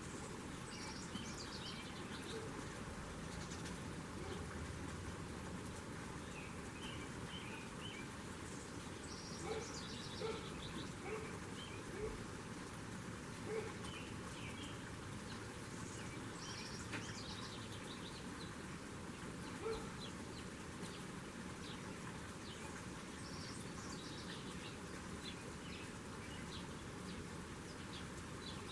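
Small birds chirping and calling in short, scattered notes around a feeder, over a steady outdoor background hiss, with a few brief soft knocks in the middle.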